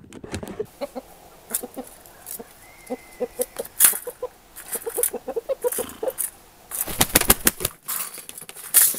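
A pet bird making short, low clucking calls in quick runs of about three a second, among scattered sharp clicks and rustles that cluster about seven seconds in.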